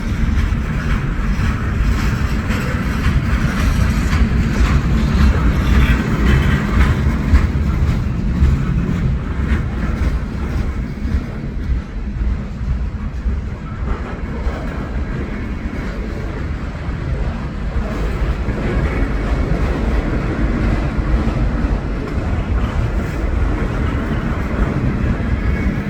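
Train passing, a loud steady rumble of rolling rail cars with many small clicks from the wheels.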